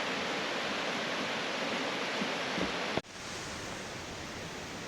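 Waterfall rushing steadily. About three seconds in it cuts abruptly to a quieter rush of water.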